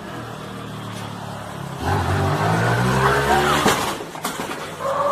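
Motorcycle engine running steadily, then revved hard about two seconds in, its pitch climbing before dropping back.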